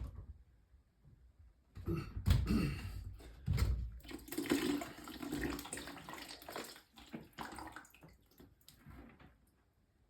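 A few knocks and clunks, then water running for a few seconds before it fades away.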